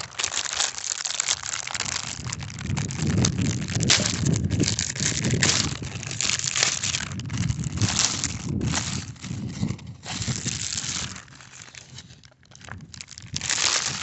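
Air filter packaging being opened and handled, crinkling and crackling in a long run of irregular bursts. It eases off for a couple of seconds before a last loud rustle near the end.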